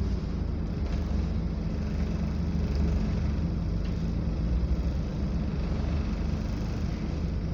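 Scania double-decker bus under way, heard from on board: a steady low engine drone and road rumble.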